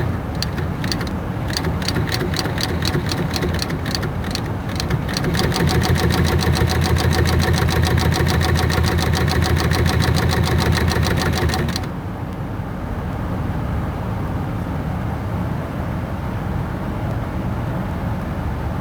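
Sewing machine stitching leather: a few halting stitches, then a fast, steady run of needle strokes for about seven seconds that stops abruptly about twelve seconds in. A steady low hum carries on after the stitching stops.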